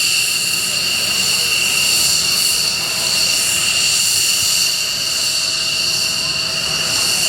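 F-16 fighter jet's engine running steadily with a loud, high-pitched whine of several steady tones over a rushing rumble.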